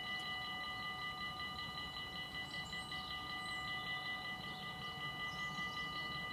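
Dutch automatic half-barrier level-crossing warning bells ringing in a rapid, even, unbroken rhythm, meaning the crossing is closed for an approaching train.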